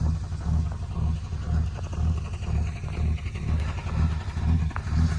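Plymouth Belvedere engine idling after a cold start, a steady low rumble that swells and fades about twice a second.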